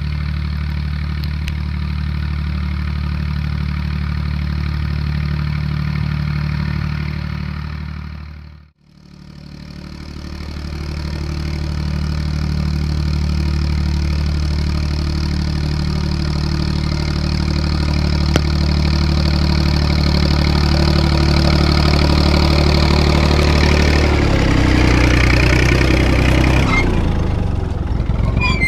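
Tractor diesel engine running steadily at a constant speed. The sound dips out briefly about nine seconds in and comes back up, and the engine note changes near the end.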